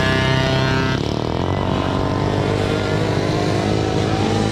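Several motocross bike engines running at once: one held at a steady high pitch drops away about a second in, while others slowly rise in pitch as they accelerate.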